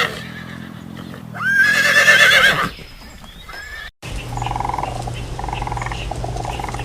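A horse whinnying, a high wavering call that ends under three seconds in. After a short gap, about four seconds in, waterfowl begin honking in repeated short calls over a steady low hum.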